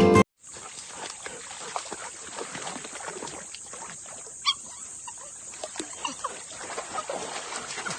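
A Labrador puppy giving a few short, high squeaky whimpers over a steady hiss with many small scattered clicks.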